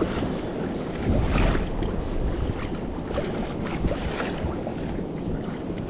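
Wind buffeting the microphone over water lapping and splashing against a kayak hull on the open ocean.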